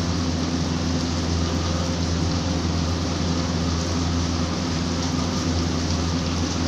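Rain falling steadily on a tiled rooftop terrace: an even hiss with a steady low hum beneath it.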